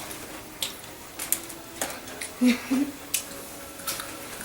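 Scattered dry crackles and crunches of freeze-dried astronaut ice cream being broken and bitten, a brittle, styrofoam-like snapping. Two short low murmurs from a mouth about halfway through.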